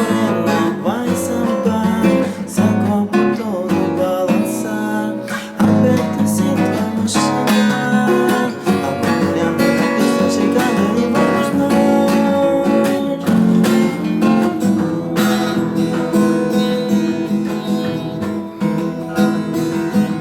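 Acoustic guitar strumming chords in a samba rhythm (the song's accompaniment strumming pattern), played without singing.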